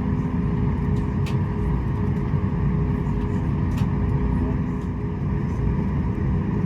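Steady cabin drone inside a Boeing 737 MAX 8 with its CFM LEAP-1B engines running at low power and the air conditioning blowing: a low rumble with steady hum tones on top. One hum drops out about halfway through, and there are two faint clicks.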